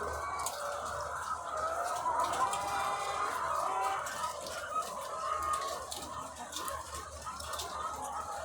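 A large flock of egg-laying hens clucking and calling at once, a dense continuous chorus of overlapping voices, with a faint low steady hum underneath.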